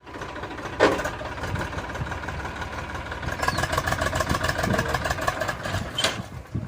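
Eicher 480 tractor's diesel engine running steadily. A short sharp knock comes about a second in.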